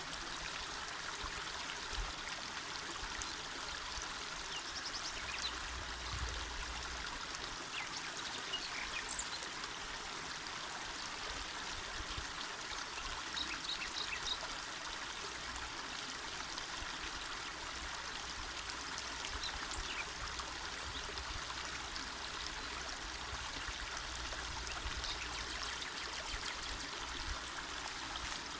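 Small mountain river flowing: a steady rush and babble of water.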